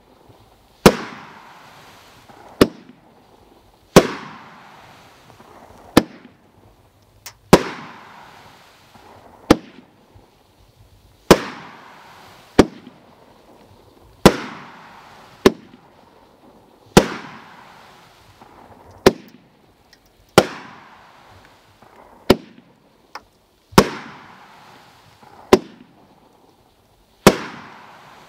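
Consumer firework cake (Red Rhino Cruiser) firing single shots in steady succession, about one every three seconds. Each is a sharp bang with a fading echo, followed a second or two later by a fainter second bang as the shot lifts and breaks.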